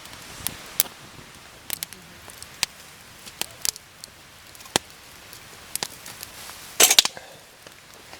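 Wood campfire crackling, with sharp pops a few times a second over a steady low hiss, and a louder burst of cracks about seven seconds in.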